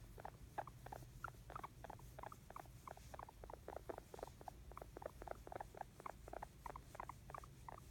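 Pet guinea pig making a fast run of short, soft squeaks, about five a second, the contented sounds of a happy guinea pig.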